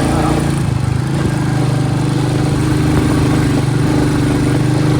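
Royal Enfield Bullet single-cylinder motorcycle engine running steadily while being ridden.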